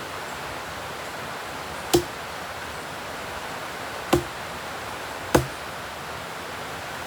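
Three sharp knocks of a tool striking wood, about two seconds and then a second apart, each with a short hollow ring, over a steady background hiss.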